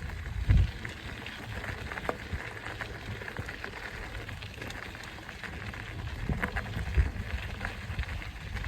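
Mountain bike rolling along a dirt trail: steady crackling tyre noise with scattered clicks and rattles, and a few low thumps, the strongest about half a second in and around seven seconds in.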